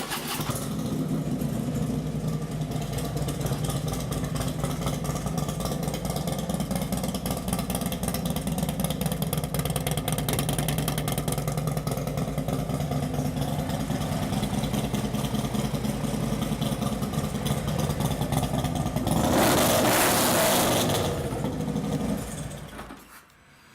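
2014 Harley-Davidson Street Glide's 103-cubic-inch fuel-injected Twin Cam V-twin starting and idling through a D&D Fat Cat 2-into-1 exhaust, a pretty loud, raspy sound. It is revved once about twenty seconds in, then shut off near the end.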